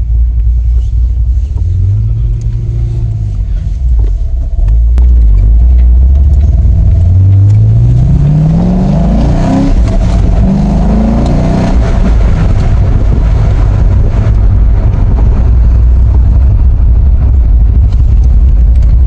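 Car engine running with a loud, low drone that is revved up twice in a row, its pitch climbing each time, before settling back to a steady drone.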